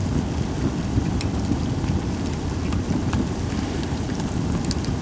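Campfire of Japanese white pine logs burning: a steady low rush of flame with frequent scattered sharp crackles and pops, little hissing.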